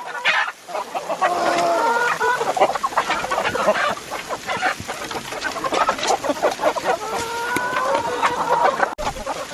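A large flock of chickens clucking and calling, with many short clucks throughout. Drawn-out calls stand out twice, about a second in and again around seven seconds.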